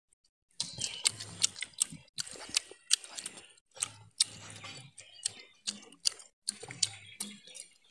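Chewing and lip-smacking from a person eating grilled chicken close to the microphone: a run of irregular wet clicks, about two to three a second, starting about half a second in.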